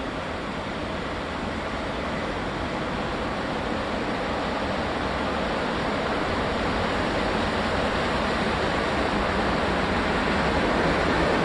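EP07 electric locomotive and its passenger coaches rolling along the track, a steady rushing noise that grows gradually louder as the train comes closer.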